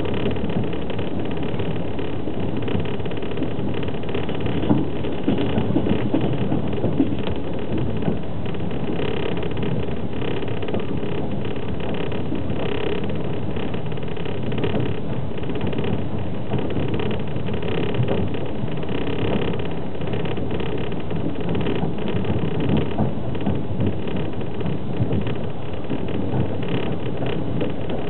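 Steady low rumble of a passenger train running at speed, heard from inside a platzkart sleeper car: the wheels on the rails and the car's running noise.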